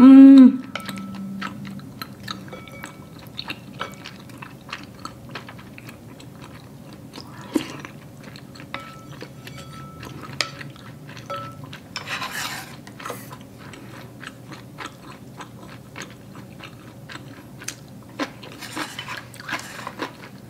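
Close-up eating sounds: chewing of soft rice cakes from rice cake soup, with a wooden spoon knocking and scraping in a ceramic bowl in scattered small clicks. A short vocal 'mm' sound at the very start is the loudest moment.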